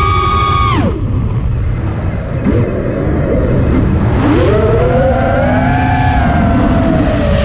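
Electric motors of a battery-powered RC aircraft whining under throttle: the pitch falls away sharply just under a second in as the throttle is cut, then climbs back about four seconds in and holds. Wind buffets the microphone.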